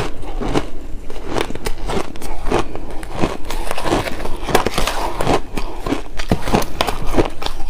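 Shaved ice being chewed and crunched close to the microphone: rapid, irregular crunches, several a second.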